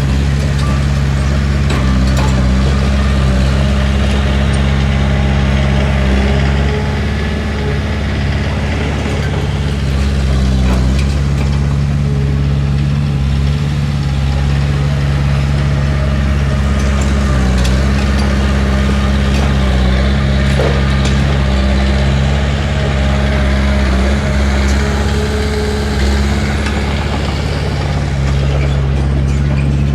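Heavy diesel earthmoving machine's engine running steadily, with a few light clanks.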